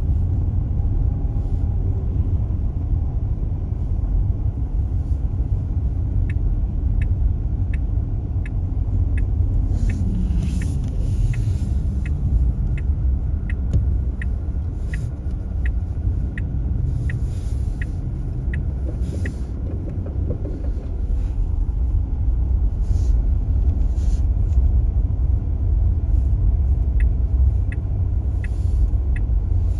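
Tesla Model S, an electric car, driving on a snowy road: steady low tyre and road rumble with no engine note. A regular ticking, about three ticks every two seconds, runs for a stretch from about six seconds in and comes back near the end.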